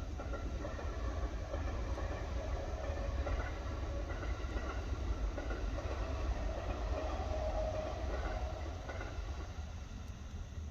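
A vehicle passing in the distance, its hum swelling over a few seconds and fading near the end, with a few faint steady tones. Beneath it runs a steady low rumble of blizzard wind.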